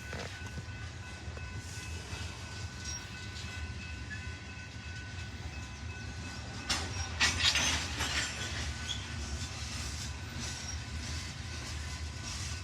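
Freight train rolling past: a steady low rumble with a faint high ringing, and a burst of clanks and rattles from the cars about seven seconds in.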